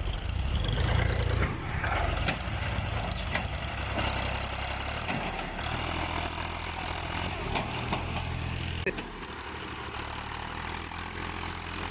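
Tractor engine running steadily, its low hum shifting in pitch about five seconds in and easing slightly near nine seconds.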